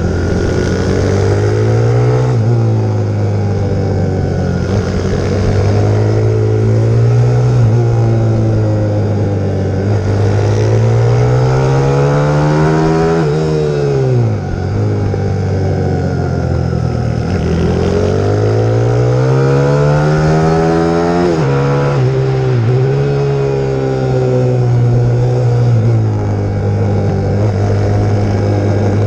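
A 150 cc single-cylinder pit bike engine (YX150) being ridden hard, its revs climbing and falling over and over as the bike accelerates and slows through the corners, with sudden drops in pitch about halfway through and again about three quarters through.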